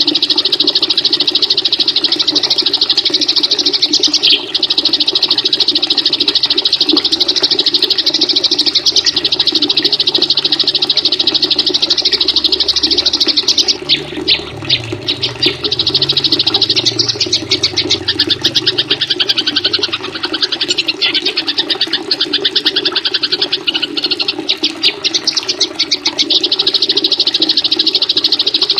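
Small songbird's rapid, continuous high-pitched chattering trill, played as a looped bird-song training track, briefly broken a few times near the middle, over a steady lower background sound.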